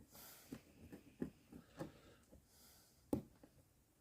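Faint scattered clicks and light scraping of hand tools picking at a failed patch inside a tyre, with one sharper click a little after three seconds.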